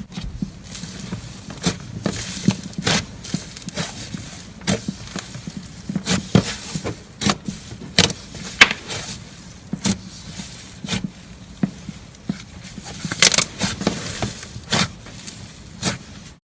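Crunchy crackling with many sharp, irregular clicks, the sound of something crisp being pressed, cut or crushed by hand, over a low steady hum.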